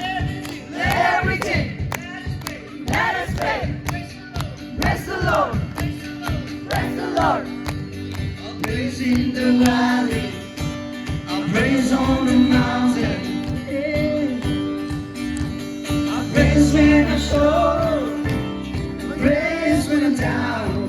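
Live Christian worship music: singing over a band with bass and a steady drum beat, with crowd noise.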